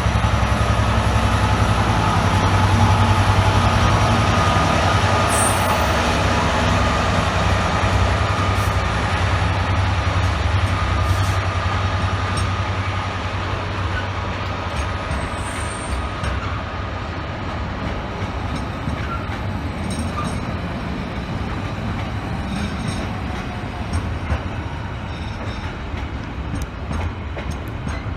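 A train running past: a loud low drone of its traction and wheels on the rails with a faint steady whine, easing off gradually through the second half.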